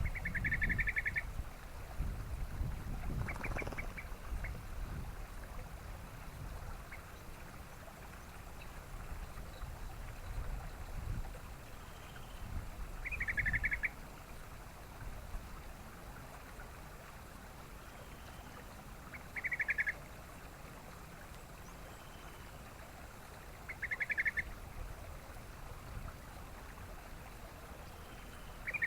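Yellow-vented bulbul giving short, rapid chattering phrases about a second long, repeated every few seconds with long pauses between, over a low rumble.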